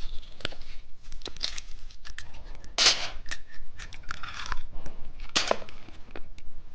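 Plastic candy wrapper being torn open and crinkled by hand, a string of sharp crackles and rustles with two louder bursts about three and five and a half seconds in.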